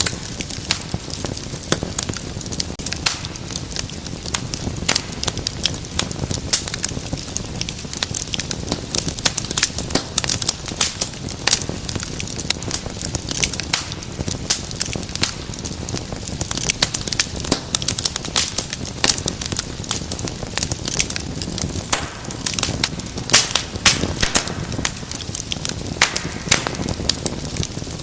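Wood fire crackling steadily in a fireplace, with many sharp pops and snaps over a soft hiss of flames.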